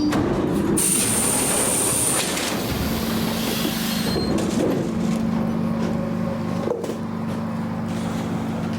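ED9M electric commuter train running, with a high thin squeal from the wheels about a second in, then a steady low hum from about three seconds on.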